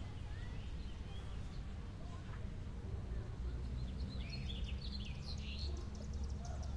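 Birds chirping, a flurry of short calls about four to five seconds in, over a steady low rumble of background noise.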